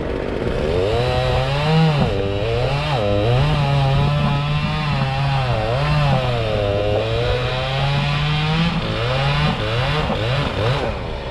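Chainsaw running under load, its engine pitch sagging and recovering again and again as it cuts. It gives a few quick revs near the end before dropping off.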